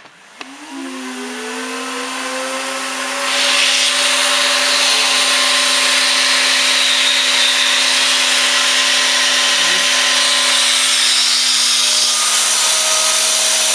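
Vacuum cleaner switched on: its motor whine rises in pitch over about two seconds as it spins up, then holds steady under a loud rush of air, which gets louder about three seconds in. The air is being drawn through a small homemade cardboard turbine motor, which is running with its drive band off.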